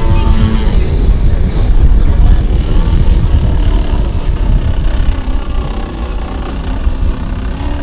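Radio-controlled model aircraft engine running in flight, its pitch falling at the start and then climbing slowly in the second half, over a heavy low rumble.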